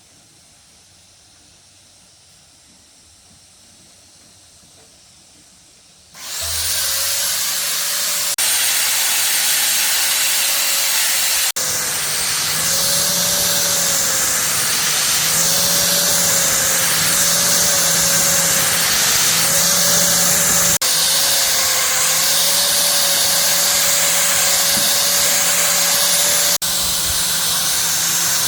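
A motor-driven workshop machine starts about six seconds in and runs steadily, with a loud hiss over a wavering hum.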